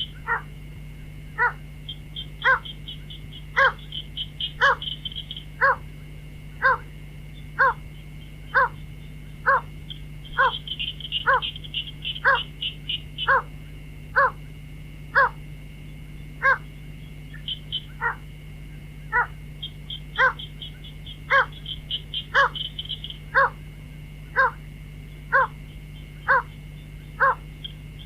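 White-breasted waterhen calling, a short 'cuốc' note repeated about once a second, each note dropping in pitch. Short bursts of rapid high ticking come in between some of the calls, over a steady hum.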